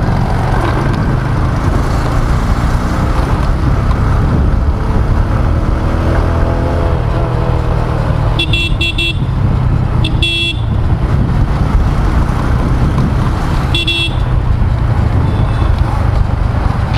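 Motorcycle engine and road noise picked up by the rider's lav mic while riding in city traffic, with other vehicles' horns honking in short beeps several times: a burst of beeps about halfway through, another just after and one more near the end.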